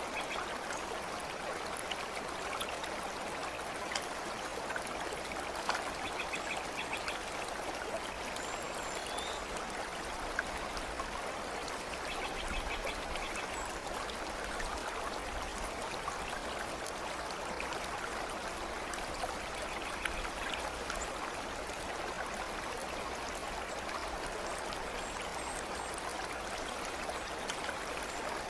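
Steady flowing stream, water running and trickling, with a few faint, brief bird calls over it.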